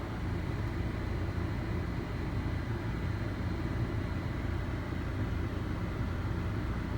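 Steady low rumble of background noise with a faint thin high tone, and no distinct events.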